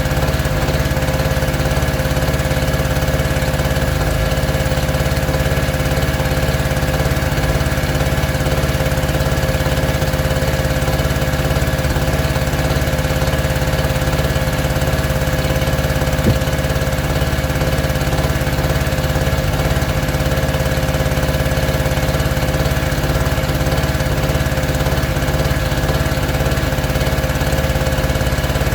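A small engine running steadily at a constant speed, with an even hum and no change in pitch.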